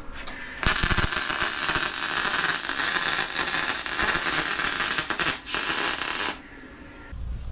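Arc welder welding steel exhaust pipe pie-cut sections, a dense steady crackling hiss that starts about half a second in and cuts off abruptly about six seconds in.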